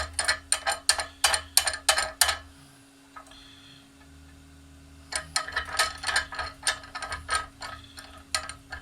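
Rapid sharp mechanical clicking, about four to five clicks a second, in two runs with a pause of about three seconds between them, over a steady low hum.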